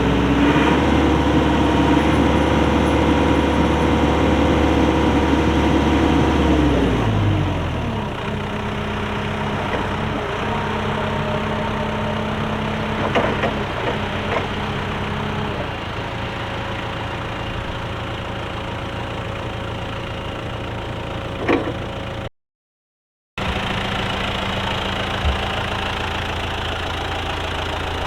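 The Perkins diesel engine of a Linde H45D forklift runs at raised revs, then drops back to a steady idle about seven seconds in. A few short knocks come over the idle, and the sound cuts out for about a second near the end.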